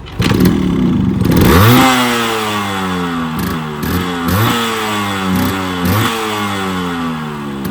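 Yamaha RX100's two-stroke single-cylinder engine starting with a rattly burst, then catching about a second and a half in and being revved in about five quick blips, the revs falling away slowly after each one. Very loud.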